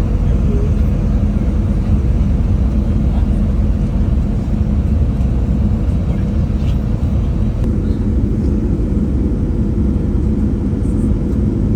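Steady cabin drone of a Dash 8 turboprop airliner's engines and propellers, a loud low rumble with a faint steady hum tone through it.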